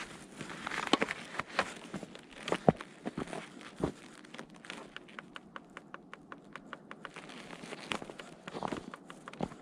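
Footsteps crunching on a leaf-littered forest trail, with scattered sharp cracks and clicks. About halfway through there is a quicker run of light ticks for a few seconds.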